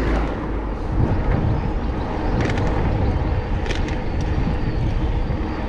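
Steady low rumble of a bicycle rolling along a city street, tyre and wind noise on a body-worn microphone, with a few light clicks and rattles.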